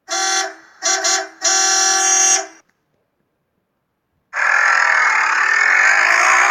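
Car horn honking three times, two short honks and then a longer one. A loud, noisy vehicle sound starts about four seconds in, its pitch dipping and rising again.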